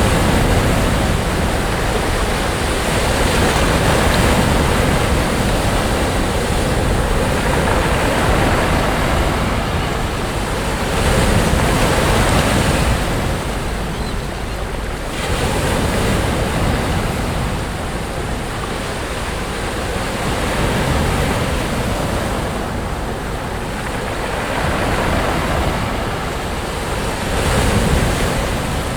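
Sea waves breaking and washing up the beach, the surf swelling and falling back every few seconds, with a low wind rumble on the microphone underneath.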